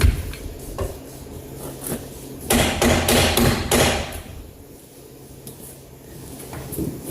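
Hammer blows on metal suspension parts of a 1971 Chevy pickup: a sharp knock at the start, a few light taps, then a rapid cluster of loud strikes lasting about a second and a half, starting about two and a half seconds in.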